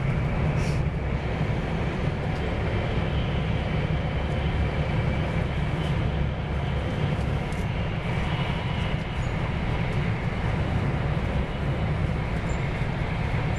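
Cabin noise of a Joetsu Shinkansen Max Toki bullet train running at speed: a steady low rumble with a fainter hiss above it.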